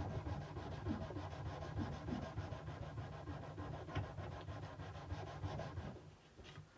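Sandpaper rubbed back and forth by hand along a steel kukri blade in quick, even strokes, stopping about six seconds in.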